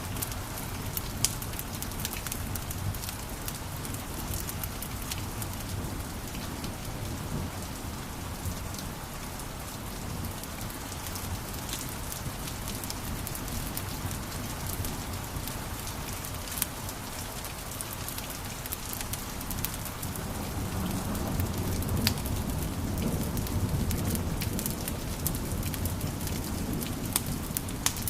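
Wood fire crackling in a fireplace: a steady hiss and low rumble of flames with frequent sharp pops. It grows somewhat louder about two-thirds of the way through.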